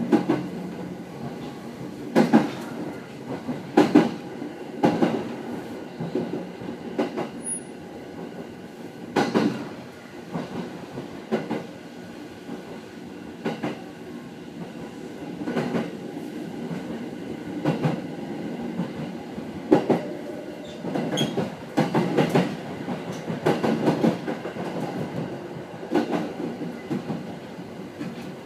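A 209 series electric commuter train running, heard from inside just behind the cab: a steady rumble and hum, broken by irregular sharp clacks as the wheels pass over rail joints and points.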